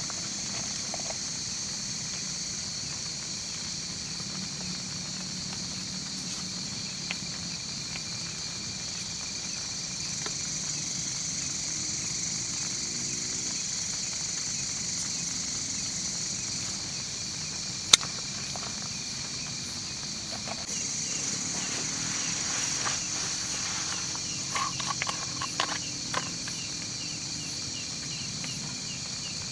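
Insects calling in a steady, high, continuous chorus, with one sharp click about eighteen seconds in and a few short knocks near the end.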